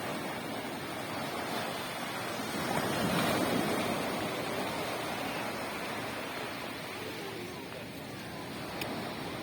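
Sea waves breaking on a sandy beach: a steady wash of surf that swells to its loudest about three seconds in and then eases back.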